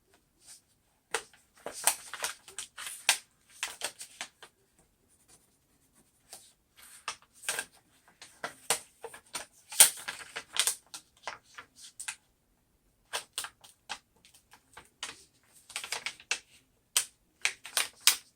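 Scratching and crackling of vinyl and contact paper being rubbed down and handled, in irregular bursts of sharp clicks and scrapes with short pauses between them.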